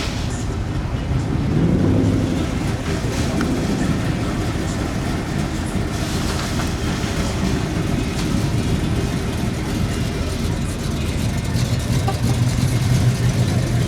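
Car engines running, with a brief rise in pitch about two seconds in and a louder stretch near the end.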